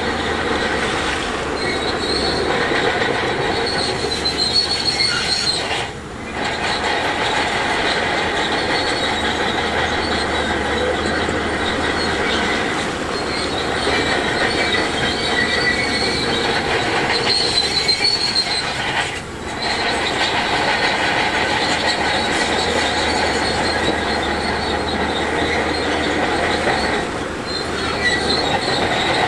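Heavy earthmoving machinery working over rock: engine noise with steady, high-pitched metallic squealing and grinding, dipping briefly three times.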